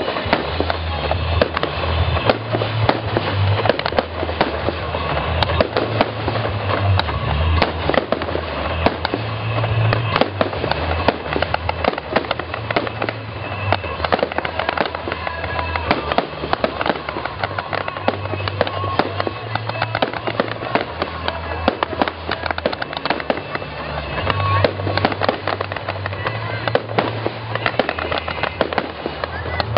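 Fireworks display going off: a dense, continuous run of crackles and bangs from bursting fireworks, with music and its bass notes playing underneath.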